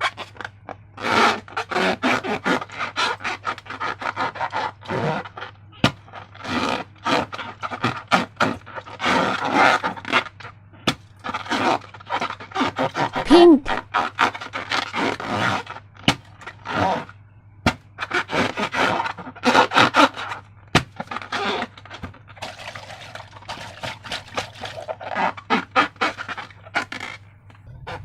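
Slime and rubber balloons being handled: irregular squishing, rubbing and crackling with frequent sharp clicks and a brief squeak about halfway through, over a steady low hum.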